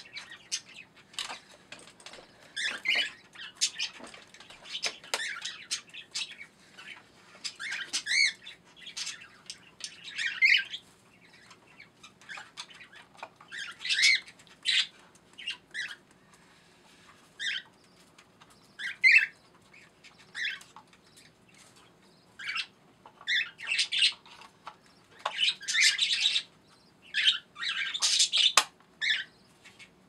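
Caged pet birds chirping and squawking in short, irregular calls, some in quick clusters.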